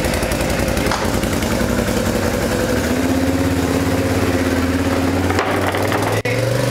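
Can-Am Renegade ATV engine running after start-up, its note stepping up slightly about three seconds in, with a brief dropout near the end.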